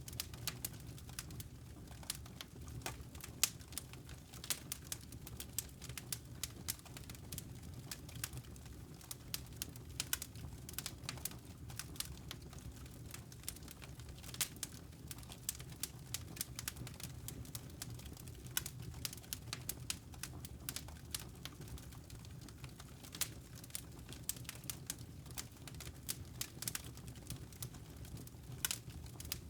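Wood fire crackling in a fireplace, with many irregular sharp pops and snaps over a low steady rumble.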